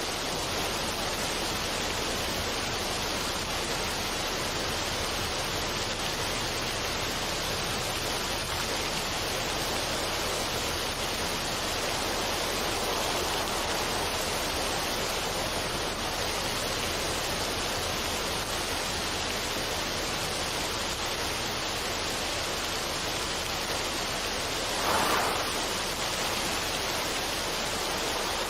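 Steady, even rushing noise like running water, with a brief swell in loudness near the end.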